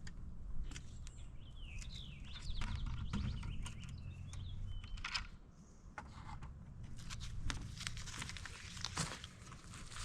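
Wild birds chirping and calling, with a scatter of sharp clicks and taps that grow more frequent in the second half.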